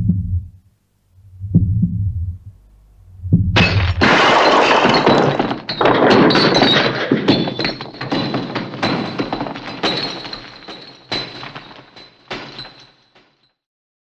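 Slow, low heartbeat-like thumps three times, then a sudden loud crash of breaking objects that clatters on for several seconds with a high ringing tone through it, dying away near the end.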